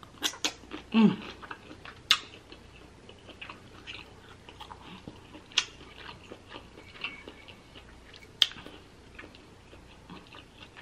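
Close-up chewing of a hand-fed mouthful of seafood boil, with scattered sharp wet mouth clicks and lip smacks, the loudest about two seconds in and again past eight seconds. A short vocal sound comes about a second in.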